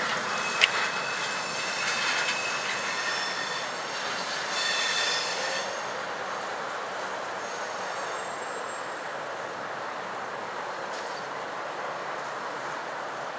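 Slow-moving Norfolk Southern intermodal freight train's wheels squealing high against the rails as the last cars pass, with a sharp click about a second in. The squeal fades out about six seconds in, leaving a steady, quieter rail noise.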